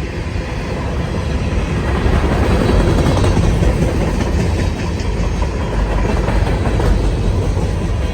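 CSX freight train's cars rolling past at track side, a steady heavy rumble with the clatter of wheels over the rails, swelling in the middle.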